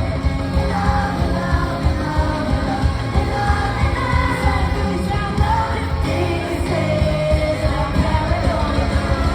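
Live pop music with singing and a heavy bass beat, loud and steady, as heard from the audience at a concert.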